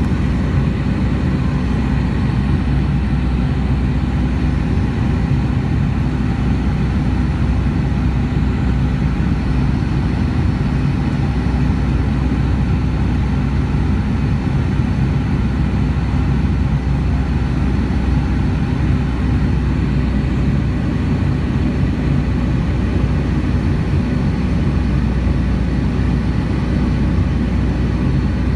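Steady, loud drone of a Boeing 757's jet engines and airflow heard inside the passenger cabin, with a low hum underneath.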